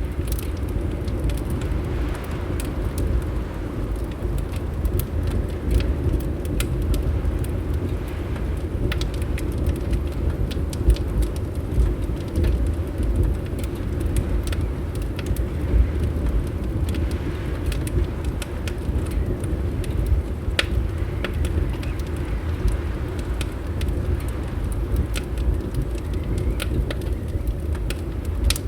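Wood fire crackling with scattered sharp pops and snaps, over a steady low rumble.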